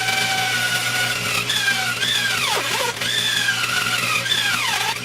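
Bandsaw running and cutting through a thick stack of black walnut, a steady hum under a high whine. The whine dips sharply in pitch twice, about halfway through and near the end.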